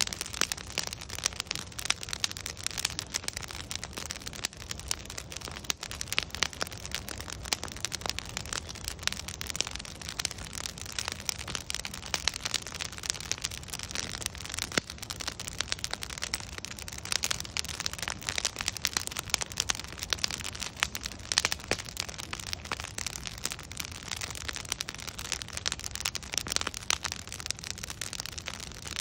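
Logs burning in a bonfire, crackling and popping: a constant patter of sharp snaps and pops over a steady hiss.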